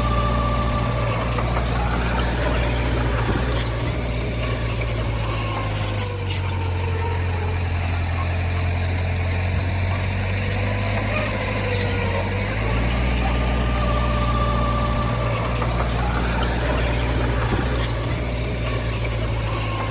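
Heavy diesel engine of earthmoving equipment running steadily, its low drone changing speed twice, with a wavering whine above it and a few sharp clanks.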